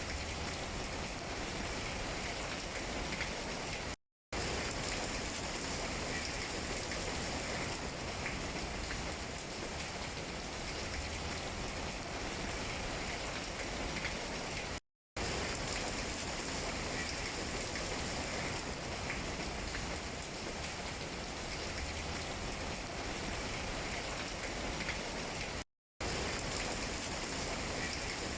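Steady rain falling on tree leaves, a dense even patter. It cuts out to silence for a split second three times, about every eleven seconds.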